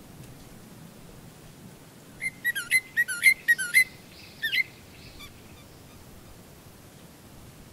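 A bird calling: a quick run of about seven short, shrill, swooping notes over about a second and a half, then one more note half a second later, over a faint steady hiss.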